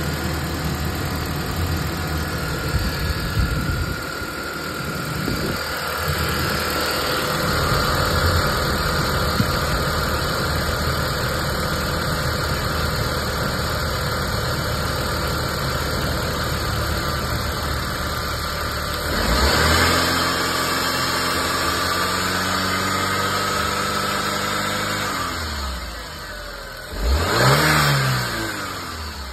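Mk1 Audi TT 225 Quattro's BAM 1.8-litre 20-valve turbo four-cylinder, a freshly installed replacement engine, idling steadily. About two-thirds of the way through it is revved up and held before settling back, and a quick throttle blip follows near the end.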